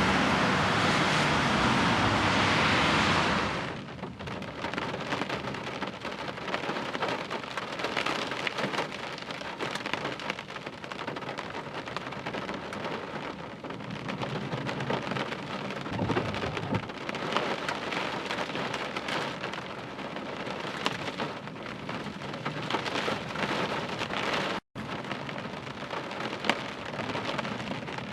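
Heavy rain falling, a dense crackle of many drops hitting close by. It follows a louder, steady rushing noise that cuts off suddenly about four seconds in, and there is a brief dropout of all sound near the end.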